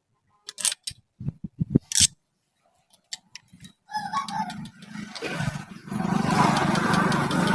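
A few sharp clicks and knocks, then from about four seconds in an engine sound builds up and settles by about six seconds into steady running: the Kubota M6040 tractor's diesel engine being started.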